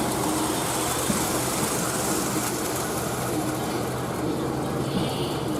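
Tri-Rail commuter train passing, a steady rumble of engine and wheels on the rails.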